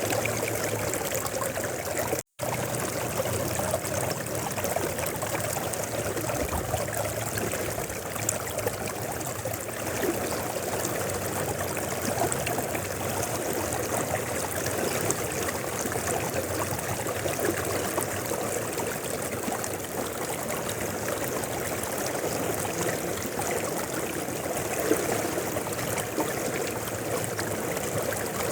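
Mountain river flowing steadily, a continuous rushing and burbling of water over stones. The sound cuts out completely for an instant about two seconds in, then resumes.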